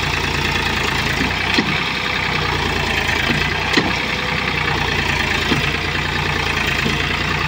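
Powertrac Euro 50 tractor's diesel engine idling steadily, with two brief knocks about one and a half and four seconds in.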